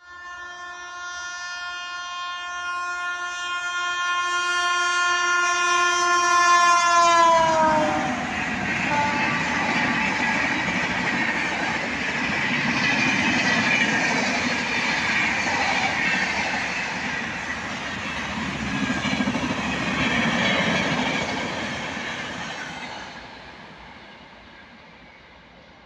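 Express train horn held in one long blast as the train approaches, its pitch dropping sharply as the locomotive passes about seven and a half seconds in. Then the loud, steady rush of the coaches going through at full speed, which fades away over the last few seconds as the train recedes.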